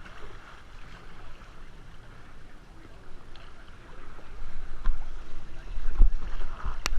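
Kayak paddles splashing and water sloshing around the boats, with a low rumble from about four seconds in and a few sharp knocks near the end, the loudest just before it finishes.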